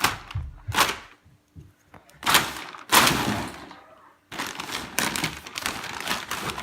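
Packaging on a car bumper lip being pulled and forced open by hand, in a series of loud, irregular rustling bursts, the loudest about two to three seconds in.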